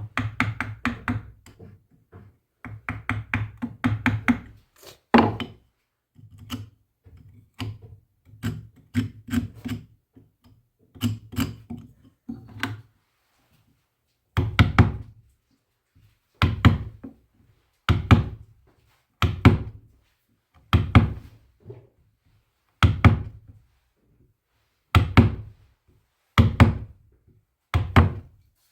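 Repeated knocking on wood: quick runs of light taps at first, then, from about halfway, single heavy knocks about every second and a half, each with a short ring.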